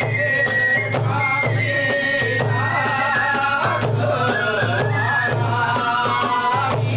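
Hiroshima kagura ensemble playing: a bamboo flute melody stepping between held notes over steady taiko drum beats and rapid clashing of small hand cymbals.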